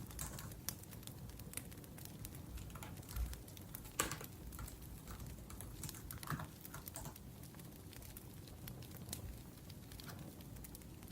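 Typing on a laptop keyboard: irregular key clicks, one sharper tap about four seconds in, over a wood fire crackling.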